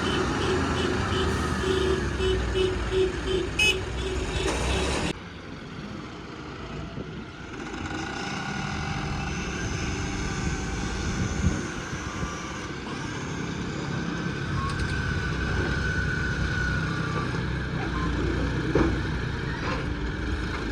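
Heavy diesel vehicle engine running, with a rapidly repeating horn-like beeping over it for the first five seconds. The sound then cuts off abruptly to a quieter, steady engine rumble.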